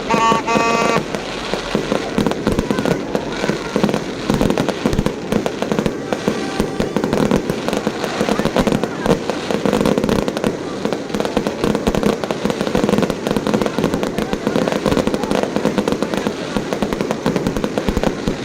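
Fireworks display: a dense, continuous run of sharp bangs and crackles, with a crowd's voices underneath. A snatch of music sounds in the first second.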